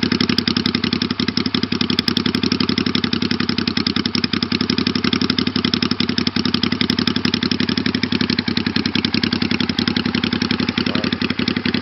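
1985 Honda Shadow VT500's V-twin engine idling steadily through short welded exhaust pipes, with a rapid, even exhaust pulse. The engine is not yet fully warm, and the owner is unsure whether the carburettors are correctly adjusted.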